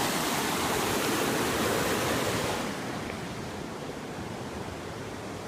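Creek water rushing steadily over rocks, turning quieter and duller about two and a half seconds in.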